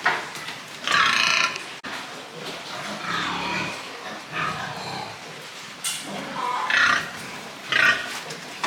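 Pigs grunting and squealing, with a few loud, short, high-pitched calls.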